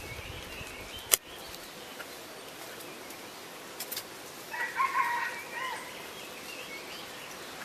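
A rooster crowing once in the distance, a wavering call of about a second starting about four and a half seconds in, over a faint steady outdoor background. A single sharp click comes about a second in.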